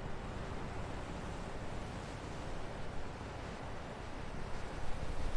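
Steady, even rushing outdoor background noise, swelling slightly near the end.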